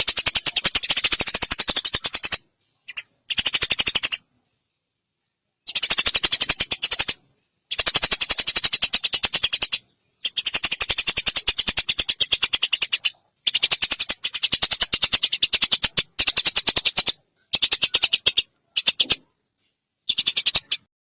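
Eurasian tree sparrow's fighting chatter: a fast rattle of sharp, high chirps in bouts of one to three seconds with short silent gaps between them.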